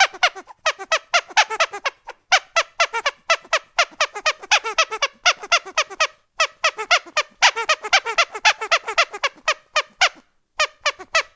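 Rubber duck squeak toy squeezed rapidly and repeatedly, about five squeaks a second, each squeak dropping in pitch. The squeaks come in runs with short pauses between them.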